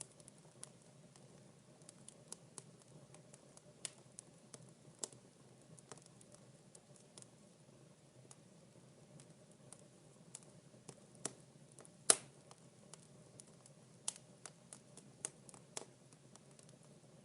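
Wood fire in a fireplace crackling: irregular sharp pops and snaps, with one much louder pop about twelve seconds in.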